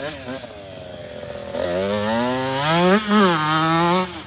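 Dirt bike engine revving: faint at first, then from about a second and a half in it gets louder and its pitch climbs, dips briefly near three seconds, climbs again and drops away near the end.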